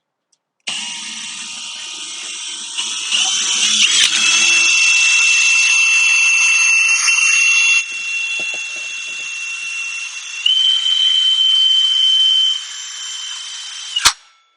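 Electric drill boring a hole through a shower wall for the valve: it starts about a second in, cutting with a heavier grinding sound for the first few seconds, then runs on with a steady whine that steps up in pitch and loudness past the middle, and stops abruptly near the end.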